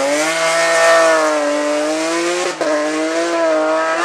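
Race car engine held at high revs under hard acceleration, with a quick gearshift about two and a half seconds in before it pulls again.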